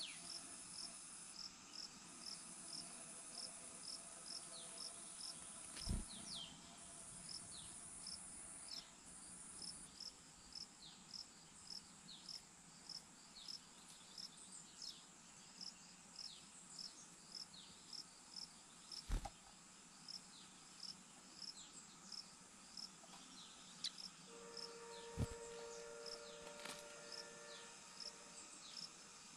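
Faint insect chorus: a high chirp repeating about twice a second over a steady high buzz that breaks off and stops about a third of the way in. There are three sharp clicks, the loudest about two-thirds of the way in.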